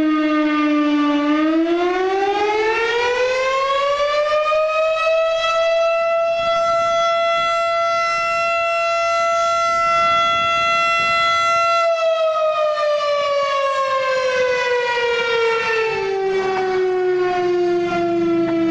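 Federal Signal STH 10 fire-station siren sounding a single tone. It winds up over about five seconds, holds a steady high pitch for about six seconds, then slowly winds back down.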